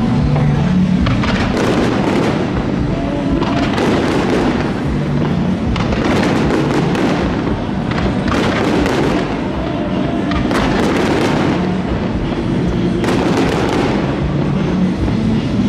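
Aerial fireworks bursting, a burst about every two to two and a half seconds, each trailing off over about a second, with music playing underneath.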